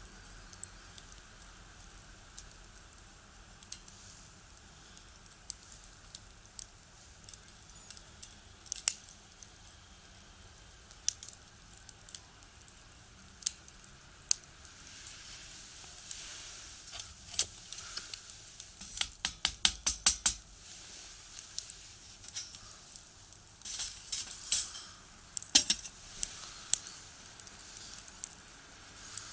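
Firewood crackling in a small box stove: scattered sharp pops, a quick run of crackles about twenty seconds in, and more bursts of popping near the end.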